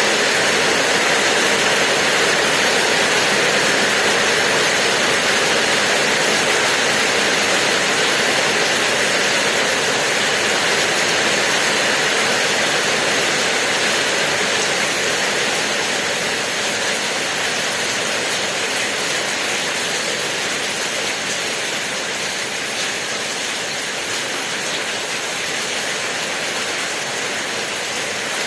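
Steady rain, a dense even hiss that eases slightly in the second half.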